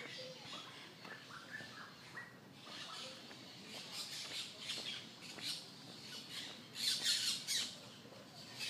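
Birds squawking in a run of repeated harsh calls, loudest about seven seconds in.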